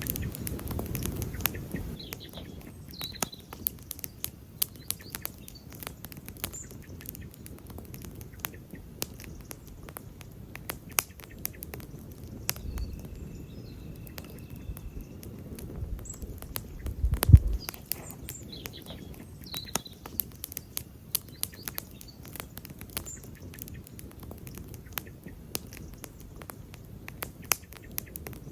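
Wood campfire crackling, with frequent sharp pops and snaps over a low steady rumble of the flames. One much louder pop with a low thump comes about two thirds of the way through.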